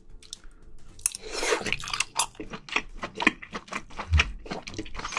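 A person chewing a mouthful of scallop meat in spicy sauce close to the microphone. A brief noisy rush comes about a second in, then a quick run of short chewing smacks.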